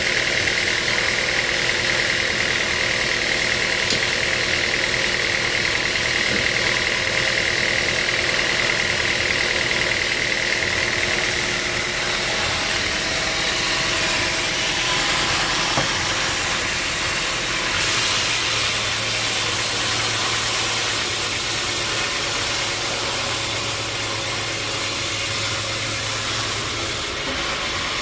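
Sawmill machinery running steadily, a mechanical drone with a high hiss. The sound changes about two thirds of the way in, with a stronger hiss and a low hum, then changes back near the end.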